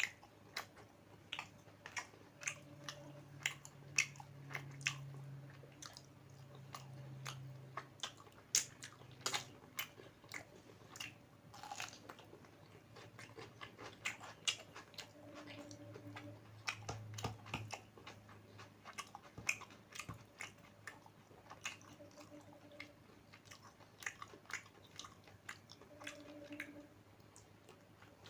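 A person chewing and biting food close to the microphone, with frequent sharp, wet mouth clicks, about two a second.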